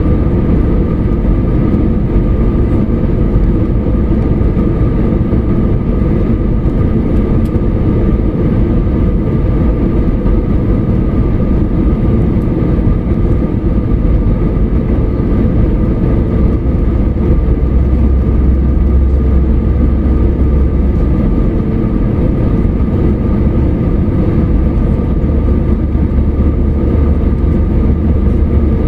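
Steady rumble of an airliner heard from inside the cabin, with a constant engine whine over a deep low roar.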